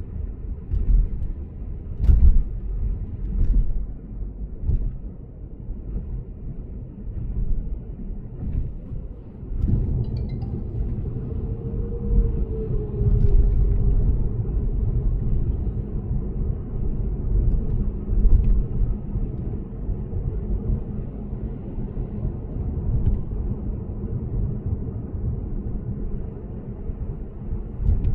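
Lexus GS450h hybrid saloon cruising on an expressway, with a steady low rumble of road and tyre noise. Several sharp knocks come through, and the rumble gets louder about ten seconds in.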